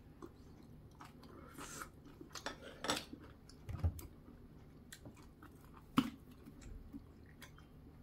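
Close-up chewing of a mouthful of green onion kimchi, irregular wet mouth clicks and crackles, with a few sharper clicks about halfway through and the loudest one a little later.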